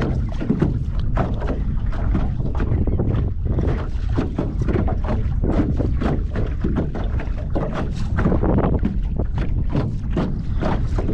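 Wind buffeting the microphone in a steady, gusty rush, with choppy water slapping against the hull of a small fishing boat.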